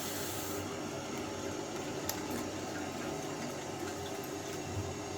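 Mains water running steadily into a Potterton Gold combi boiler through its filling loop, the system being topped up to pressure after the plate heat exchanger was replaced. A single faint click about two seconds in.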